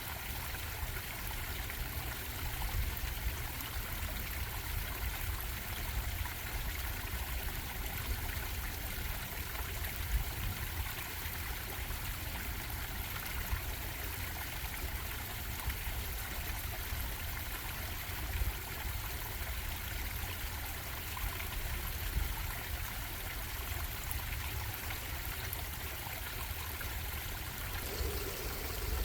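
Stream of water bubbling and trickling, a steady rushing wash with a deep low rumble underneath.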